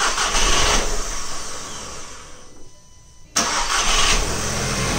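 A 2007 Volkswagen GTI's 2.0-litre turbocharged FSI four-cylinder is being started for the first time after a dual-mass flywheel replacement. The first attempt does not keep running and dies away over a few seconds. A second start about three and a half seconds in catches, and the engine keeps running.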